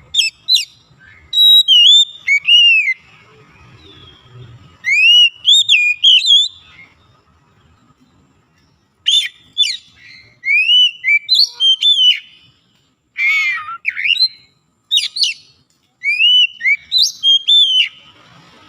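Oriental magpie-robin singing: loud phrases of clear whistled notes that swoop up and down, broken by short pauses, with a brief harsh, buzzy note about two thirds of the way through.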